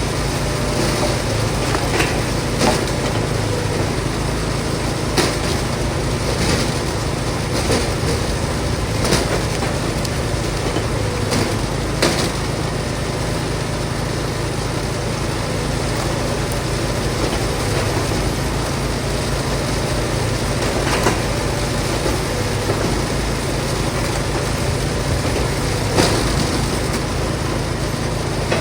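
Allwood Musclewood log splitter's engine running steadily under load, with sharp knocks now and then as logs are split.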